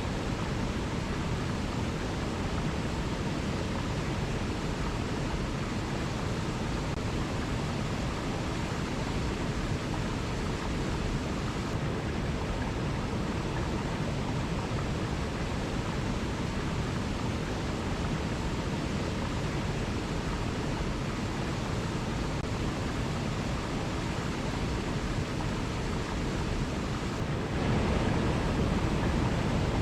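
Waterfall: a steady, unbroken rush of falling water, getting a little louder near the end.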